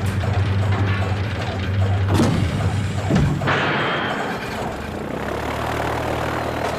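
Cartoon sound effects of an airship starting up: a steady low engine hum, two falling whooshes around two and three seconds in, then a rushing hiss from about three and a half seconds as the hum drops lower.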